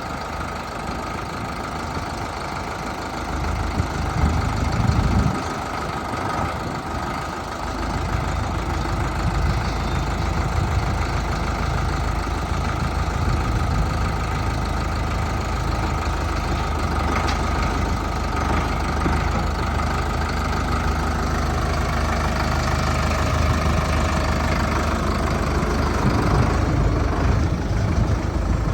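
Solis 5515 tractor's diesel engine running steadily, louder for a moment about four seconds in and with a deeper, heavier rumble from about eight seconds on.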